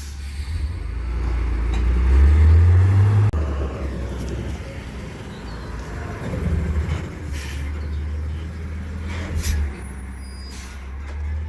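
Truck engine running, its pitch and loudness rising about two seconds in and then dropping back abruptly, with a few short hisses later on.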